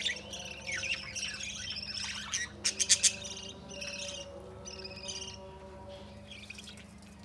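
Small pet parrots (budgies and lovebirds) chirping and chattering continuously. A quick cluster of about four sharp clicks comes a little under halfway through, and the chirping thins toward the end.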